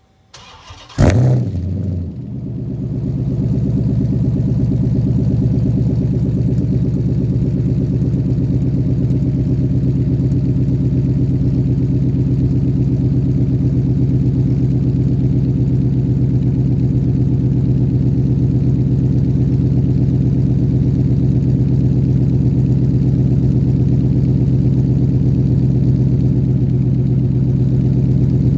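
2006 Dodge Charger SRT8's 6.1-litre Hemi V8 cold-starting through a straight-piped exhaust with gutted catalytic converters, stainless mini mufflers and Magnaflow resonators: a brief crank, a loud flare as it catches about a second in, then a steady idle.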